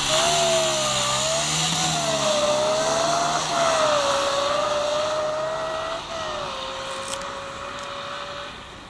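Supercharged Honda Monkey Z50 pit bike running, a strong whine that wanders up and down in pitch over a bright hiss, fading away over the last few seconds.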